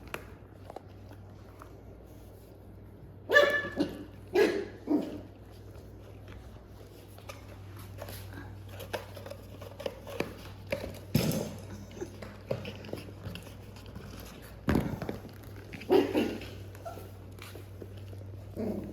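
Six-week-old Welsh Terrier puppies barking and yipping in play: a handful of short, high barks spread through, the loudest about three seconds in, with small knocks and scuffles between.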